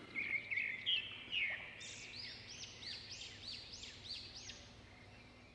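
A bird chirping in the background: a quick series of repeated rising-and-falling notes, about two or three a second, fading toward the end.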